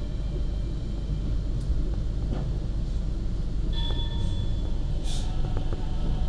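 Argo Bromo Anggrek passenger train running, heard from on board: a steady low rumble of wheels on rail, with a few brief clicks and short high tones.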